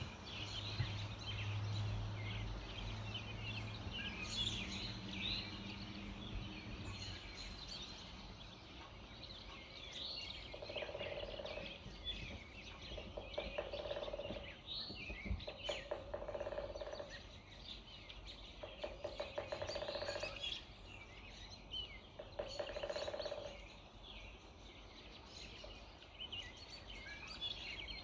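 Early-morning bird chorus: many small birds chirping and twittering in a high, busy jumble. From about ten seconds in, a lower, pulsing bird call sounds five times, roughly every three seconds.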